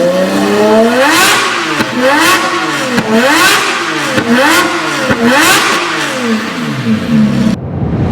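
Lamborghini Murciélago LP640's V12 engine through an Armytrix titanium exhaust, revved again and again, its pitch climbing and falling about once a second; the sound cuts off sharply near the end.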